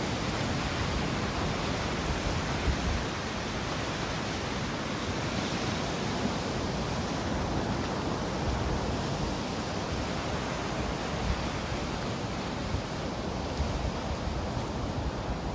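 Wind blowing across the microphone: a steady rushing hiss with uneven low buffeting.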